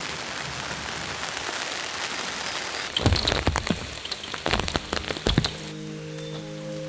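Steady rain hiss, changing about three seconds in to heavy drops falling with loud, irregular taps. Soft sustained music comes in near the end.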